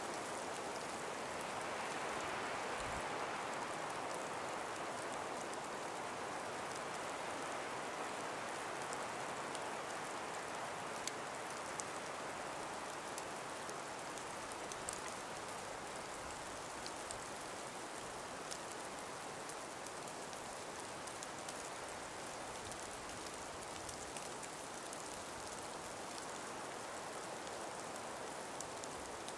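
Calm winter breeze moving through ice- and snow-laden forest trees: a soft, steady rushing that swells slightly a couple of seconds in, with scattered faint ticks.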